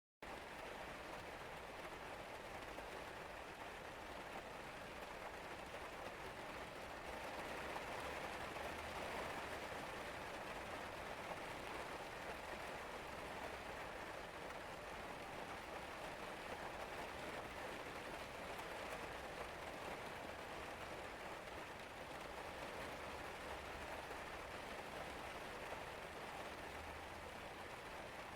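Steady rain falling and pattering on surfaces, swelling slightly about seven seconds in.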